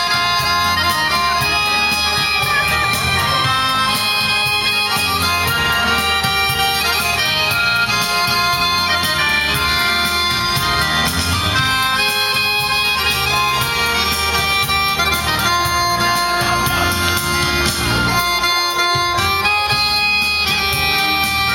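Dance-hall music led by an accordion, holding sustained chords and melody over a steady beat.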